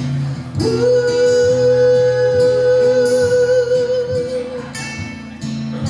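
A band playing a song with guitar, in a passage without sung words; one long held note with a slight wobble starts about half a second in and stops near the end.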